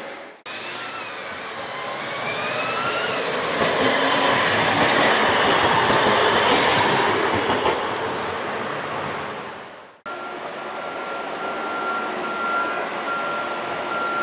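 CAF Urbos 3 tram passing by: a rising electric whine from the drive and wheel noise swell to a peak in the middle and fade away. It cuts off abruptly about ten seconds in, giving way to a steadier hum with a constant high-pitched tone.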